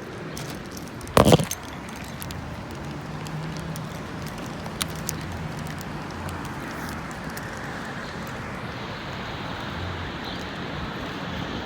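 Riding a rental electric scooter: steady road and wind noise, with one loud knock about a second in and a small sharp click near five seconds.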